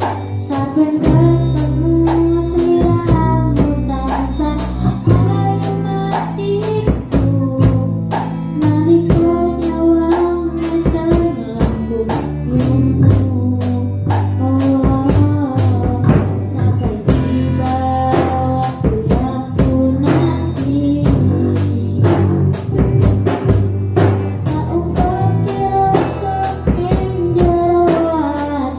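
Band music with no words: a steady drum beat with tambourine, bass, and a melody line carried by an instrument.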